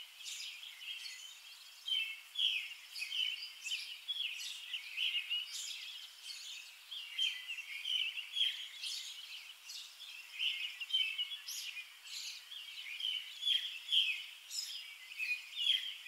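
Many small birds chirping and twittering in a continuous dense chorus of short, high chirps.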